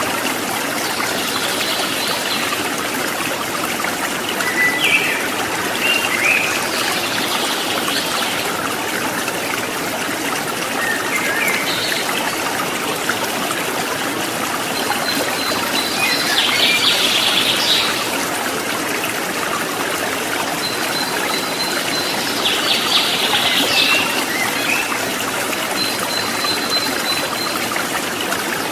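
Running water trickling and splashing steadily, with small birds chirping in short bursts now and then above it.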